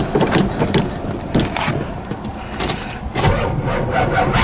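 Chevrolet Monte Carlo's starter cranking the cold engine after five months of sitting, with a run of uneven knocks; the engine does not catch.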